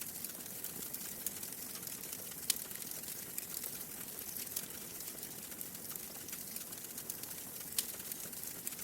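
Wood fire crackling in a fireplace: a steady soft hiss under frequent small pops and snaps, with a sharper pop about two and a half seconds in and another near the end.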